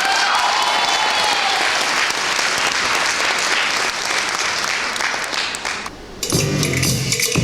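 Audience applauding after a dance number; the applause fades out about six seconds in, and the next piece of music starts with a steady beat.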